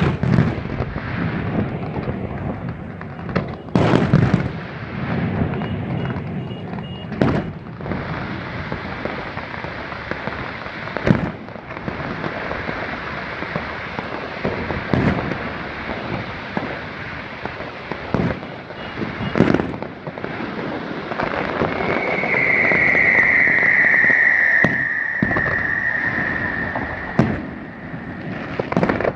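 Aerial fireworks display: booming shell bursts every few seconds over continuous crackling. A high whistling tone, falling slightly, sounds for about five seconds near the end.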